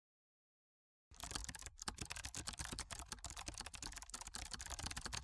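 Computer keyboard typing: a fast, continuous run of key clicks starting about a second in.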